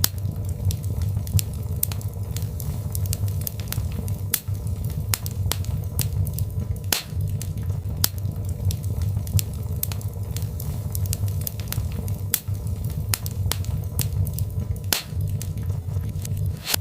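Birchwood fire burning in a fireplace: a steady low rumble of flames under frequent sharp crackles and pops, with two louder pops about seven seconds in and again about fifteen seconds in.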